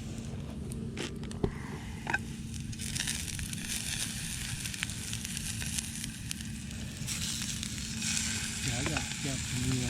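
Food sizzling in a frying pan, the hiss building from a few seconds in, with a few sharp clicks in the first two seconds.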